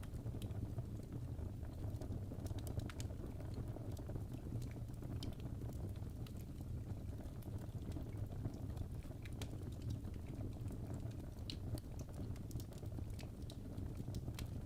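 Fireplace crackling: a steady low rumble of burning wood with scattered, irregular sharp pops and snaps.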